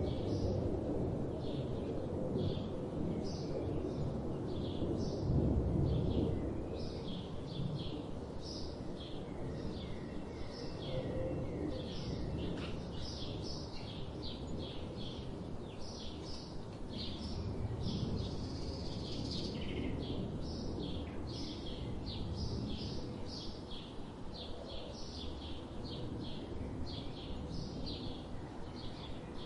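Several small birds chirping in a dense stream of short, quick calls. Underneath runs a low rumbling background noise, loudest at the start and again around five to six seconds in.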